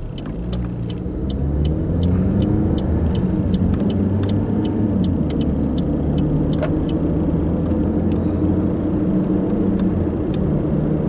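Car engine and road noise heard from inside the cabin: the engine speeds up in the first couple of seconds, then the car drives on at a steady pace. A light, even ticking runs about two to three times a second through the first half.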